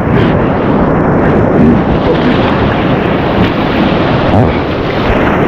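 Loud, steady rush of whitewater on a river running high.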